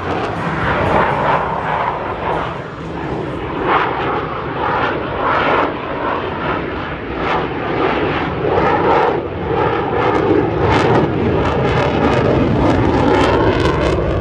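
Loud aircraft engine noise that runs on steadily while its level rises and falls.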